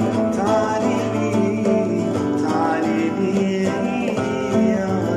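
Music: a guitar playing the melody of a Gulf Arabic song, in a stretch between sung lines.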